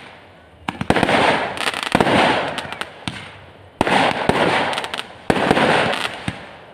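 Firecrackers going off in a bonfire: four loud hissing, crackling bursts roughly a second and a half apart, each opening with sharp pops, with scattered single cracks between them.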